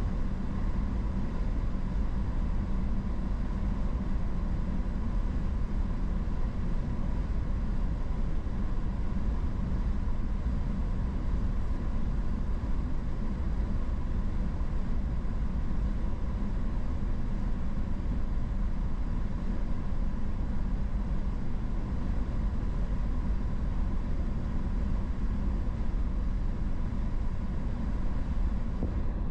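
Steady road and engine noise of a car driving, low and even, with a faint steady whine.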